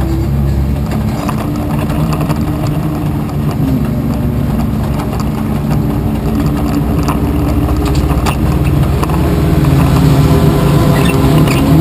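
Race car's engine heard from inside its stripped-out cabin, running at low speed with the revs rising and falling, and growing louder about ten seconds in as the car accelerates.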